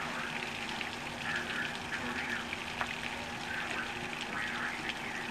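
Heavy hurricane rain pouring steadily, a dense hiss of drops hitting wet ground and water. A faint steady low hum runs underneath.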